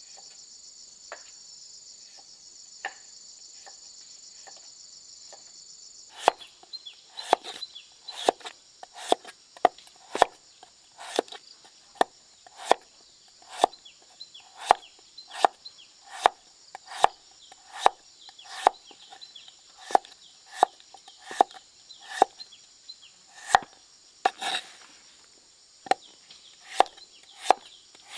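Insects chirring, then from about six seconds in a steady run of chopping strokes, roughly one a second, with a short scraping rush near the end.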